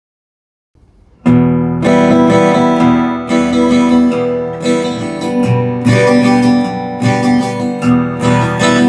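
Acoustic guitar played in a steady rhythm of chords, each new stroke about every half second, starting a little over a second in and ringing on.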